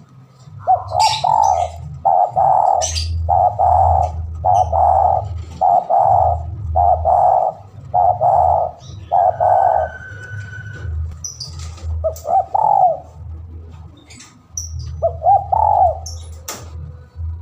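Spotted dove cooing, a territorial call to a rival: a fast run of repeated coos, nearly two a second, for about nine seconds. After a pause come two shorter calls, all over a steady low hum.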